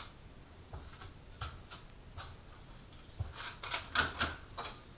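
Light, irregular clicks and taps of small plastic HO slot-car parts, sparse at first, with a louder cluster of clicks about three to four seconds in.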